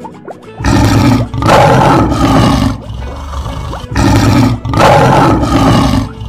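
Lion roar sound effect, heard twice: two loud, rough roars of about two seconds each, the first starting about half a second in and the second about four seconds in.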